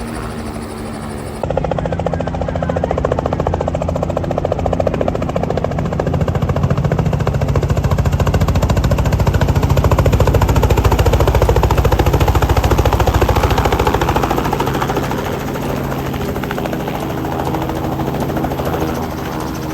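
Helicopter running, its rotor giving a fast, even beat over a steady engine drone; it grows louder toward the middle and eases off near the end.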